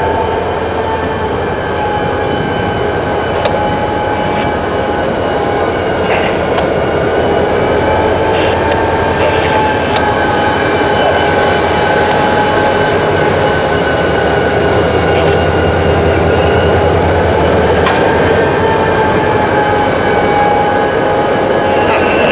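Freight cars rolling through the rail yard, their wheels squealing in several steady high tones that waver slightly in pitch, over a low rumble with a few faint clicks.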